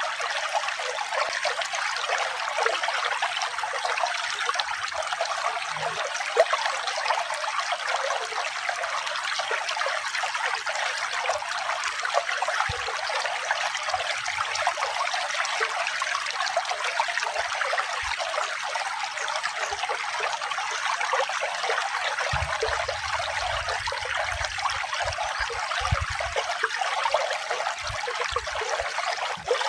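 Running water trickling and splashing steadily, an even rushing with no change in level.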